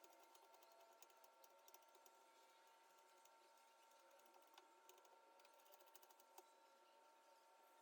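Near silence: room tone with a faint steady hum and scattered small clicks and taps.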